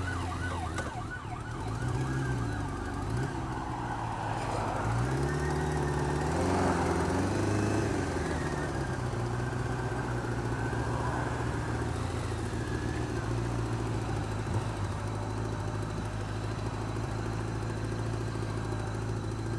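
Honda Fireblade's inline-four engine running, its revs rising and falling several times in the first eight seconds and then settling to a steady idle. It carries a repeating tick that the owner calls not normal; it is worse when the engine is cold and quietens but does not go away when warm.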